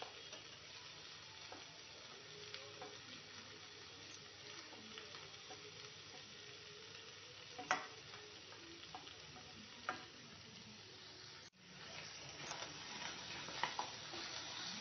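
Faint steady sizzle of fish and mashed potato frying in a kadai of onion-spice masala, with a few sharp clicks as the food is scraped in and stirred. After a brief dropout later on, the sizzle is a little louder as a wooden spatula stirs the mixture.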